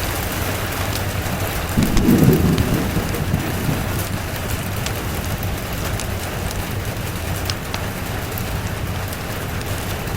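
Steady rain with a low rumble of thunder swelling about two seconds in and dying away a second or two later, over scattered sharp ticks.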